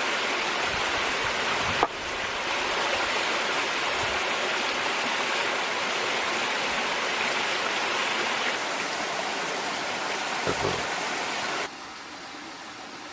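Pig ear and green peppers stir-frying in a pan, with a steady sizzle and a single click about two seconds in; the sizzle drops away suddenly shortly before the end.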